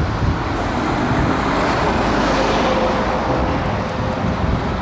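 Trucks driving past: a steady rush of road and engine noise that swells through the middle.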